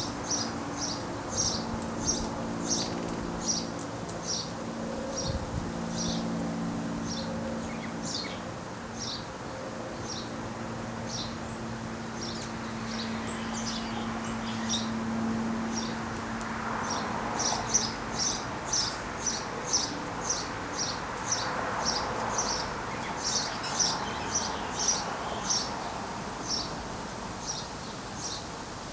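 A small bird repeating short, high chip notes, about two to three a second in long runs, quickening in the second half. A steady low hum sits underneath and fades out a little past halfway.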